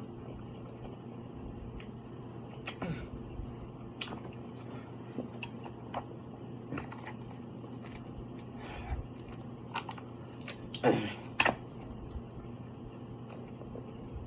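Close-miked chewing and eating sounds from seafood boil, with scattered wet crunches and cracks and a louder cluster of them about eleven seconds in, over a steady low hum.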